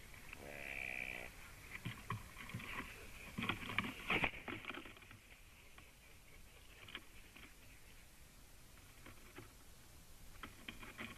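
Common raven making strange calls: one drawn-out call in the first second or so, then a run of clicks and knocks about four seconds in, with scattered faint clicks after.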